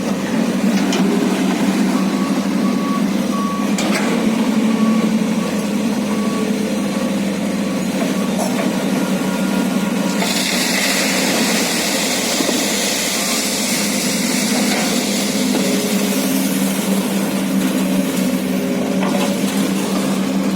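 Excavator diesel engine running steadily under work, with a repeating electronic beep for several seconds early on. About halfway through, a strong hiss sets in for several seconds.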